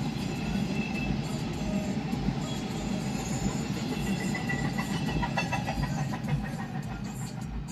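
Train rolling past on the rails: a steady rumble with a low pulsing beat, and a run of sharp clicks a little past halfway.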